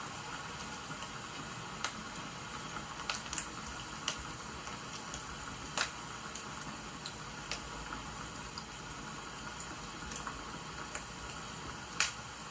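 Wood fire crackling, with sharp irregular pops over a steady hiss of rain.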